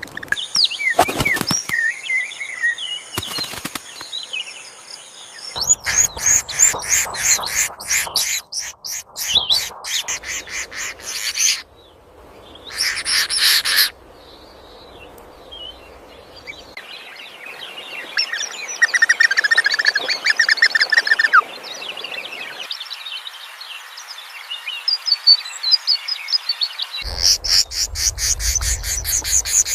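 Small birds calling in several short edited segments: sharp chirps and down-sweeping calls, then fast runs of rapidly repeated notes, and later more chirping. Near the end, fast even pulsing with a low rumble underneath begins.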